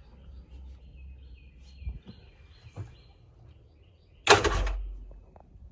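A small bird chirping in short repeated calls over a low rumble. About four seconds in there is one sudden loud noisy burst that dies away within a second.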